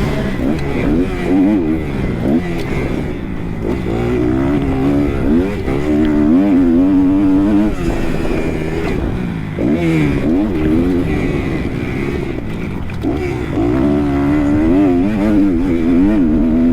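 Kawasaki KX 250 motocross bike engine revving hard and backing off again and again, its pitch climbing and falling as the throttle opens and closes, with short drops in the engine note a few times (around 3, 8, 10 and 13 seconds in).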